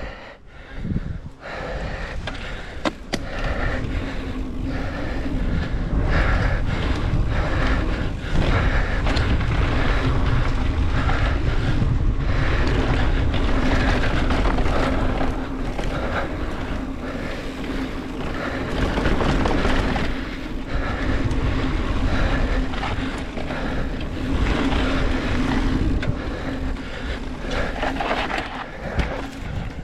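Mountain bike rolling down a dirt trail: continuous tyre noise and rattling over the ground, with wind rumble on the microphone.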